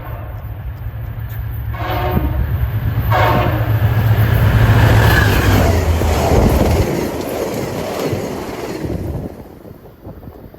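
A diesel locomotive passing with its engine running low and heavy, sounding its horn in two short blasts about two and three seconds in. The rumble of the train and its wheels builds to a peak midway, then drops off sharply near the end as it goes by.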